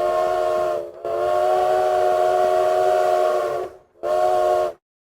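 Steam locomotive whistle blowing in separate blasts: one ends about a second in, a long blast of nearly three seconds follows, then a short final blast.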